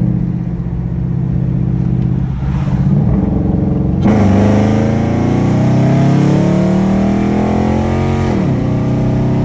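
Nissan 350Z's V6 engine running steadily, then about four seconds in going to full throttle in a hard pull. The engine note climbs steadily for about four seconds, then the revs drop sharply near the end.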